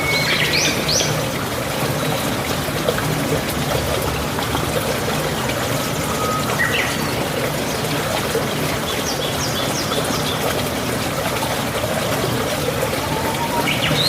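Water running steadily, like a trickling stream, with a few short bird chirps: one near the start, one about halfway, a quick series a little later and another near the end.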